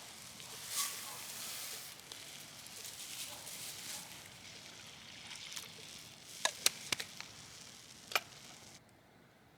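Food sizzling as it fries in a pan over a campfire, a steady hiss, with a few sharp clicks about two-thirds of the way through and one more near the end. The sizzle drops away just before the end.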